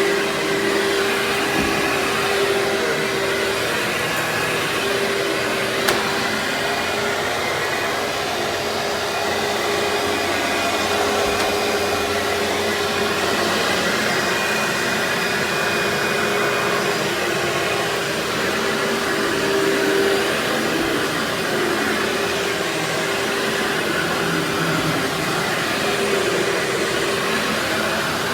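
Vacuum cleaner running steadily, its motor giving a constant whine over the rush of air, with small shifts as it works. A single sharp click about six seconds in.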